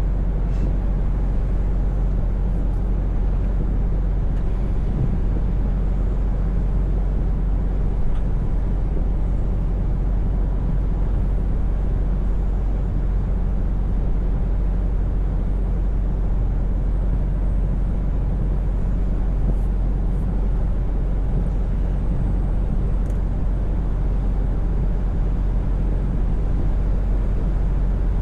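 Scania V8 truck engine and road noise as a steady drone while cruising at constant speed, with no change in pitch.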